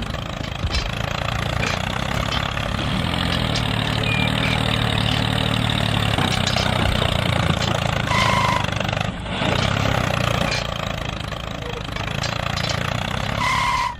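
A small engine running steadily at an even speed. Two short high-pitched tones sound about 8 seconds in and again near the end.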